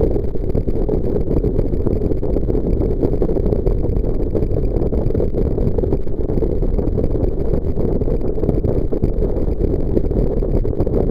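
Jet boat under way: a steady, loud engine and water noise with no change in pitch, with wind buffeting the microphone.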